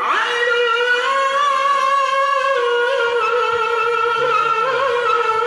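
A qari reciting the Quran in a very high voice, holding one long note and ornamenting it with wavering, melismatic turns.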